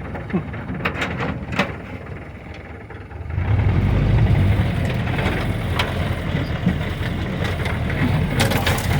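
Old Jeep running at low speed, with a few clicks and knocks; about three seconds in, the engine and driving rumble grow much louder and stay steady as it gets moving.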